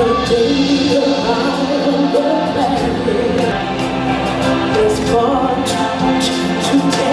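Stage-show music with a choir of voices singing over a band.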